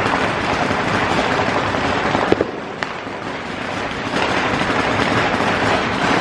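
Fireworks going off: a dense, continuous crackling of many small pops, easing for a second or so just before the middle and then building back up.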